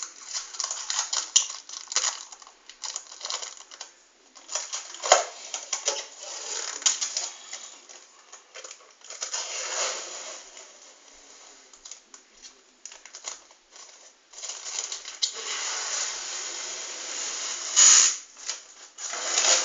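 Packaging being handled while a tablet keyboard is unboxed: crinkling and rustling of wrapping, with clusters of small clicks and crackles and short pauses between handlings.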